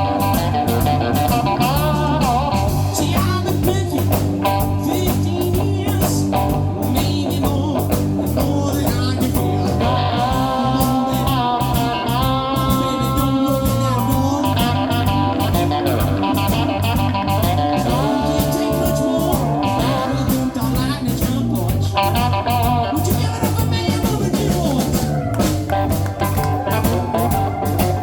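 Live blues band music: slide guitar played on a cigar box guitar over a steady drum beat.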